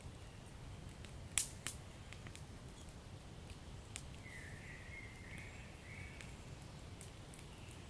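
Fireplace fire crackling over a steady low rumble of flames. Two sharp pops come close together about a second and a half in, and a smaller one comes a few seconds later. A faint wavering higher hiss runs for a couple of seconds in the middle.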